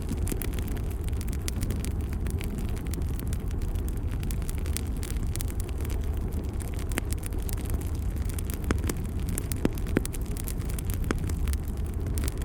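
Wood fire burning in a fireplace: a steady low rumble of the flames with scattered sharp crackles and pops, a few louder pops in the second half.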